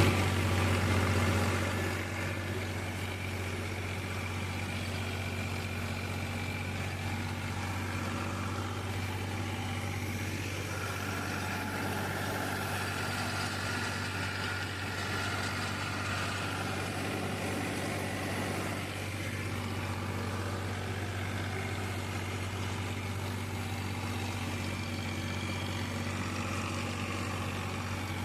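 Farmtrac XP 41 tractor's diesel engine running steadily at working revs while pulling an 8-foot rotavator, a deep, even drone. It is a little louder for the first second or two, then holds level.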